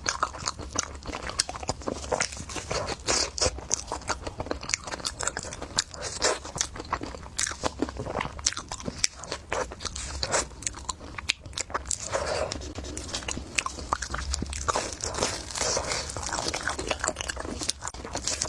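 Close-miked eating: biting and crunching food, with a dense run of crisp, irregular crunches and chewing.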